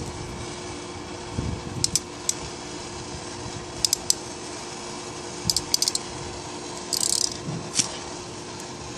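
Small sharp clicks and brief plastic rattles from handling wire connectors and shrink tubing on a low-voltage lighting wire splice, over a steady hum.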